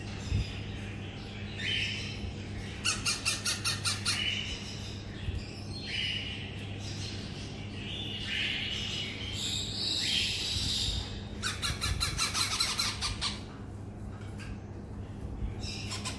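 Baby parrot chicks squawking with harsh, raspy begging calls, with two stretches of rapid pulsed chattering calls, about three seconds in and again around twelve seconds in.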